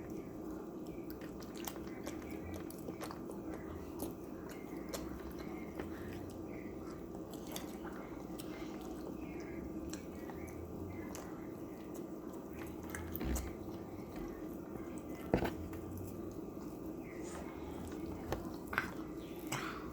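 People chewing and biting food, with scattered small mouth clicks over a steady low hum. A single dull knock comes about fifteen seconds in.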